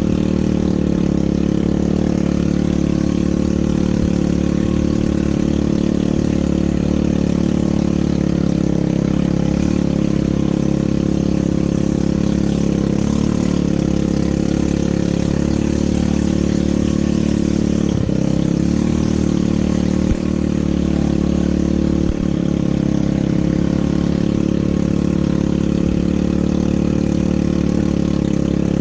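ATV engine running steadily, with a few brief knocks about two-thirds of the way in.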